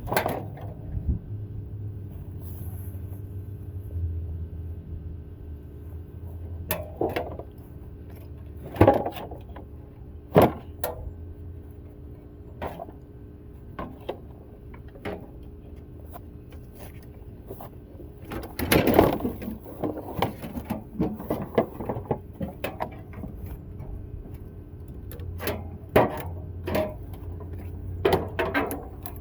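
Scattered knocks and clanks from a rusted-out window air conditioner being taken apart for scrap, with a busier stretch of rattling a little past the middle. A steady low hum runs underneath.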